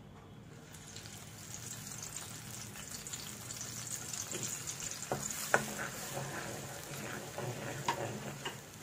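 Ground masala paste of coconut, coriander, cumin, red chillies and tamarind sizzling as it fries in hot ghee and oil in a nonstick kadai. The sizzle builds about a second in, and the ladle and spatula knock and scrape against the pan a few times while it is stirred.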